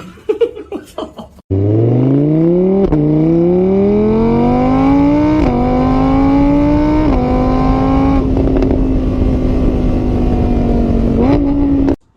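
Car engine accelerating, its pitch climbing and dropping back three times as it shifts up through the gears, then holding steady before it cuts off suddenly.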